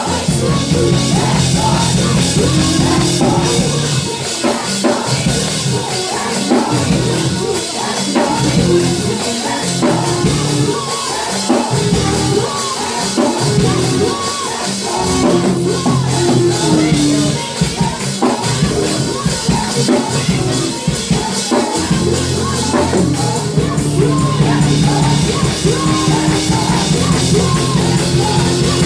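Live gospel praise-and-worship music: a band with drum kit, bass and keys playing steadily under singing.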